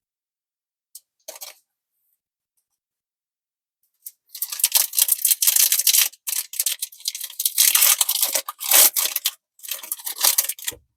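Foil wrapper of a Pokémon TCG Crown Zenith booster pack being torn open and crinkled: two faint short rustles, then from about four seconds in a long stretch of loud crinkling and tearing broken by brief pauses.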